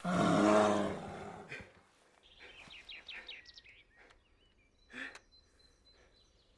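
A loud, deep animal growl lasting about a second and a half, the sound of a bear outside a tent. It is followed by a few quick bird chirps and a short rustle about five seconds in.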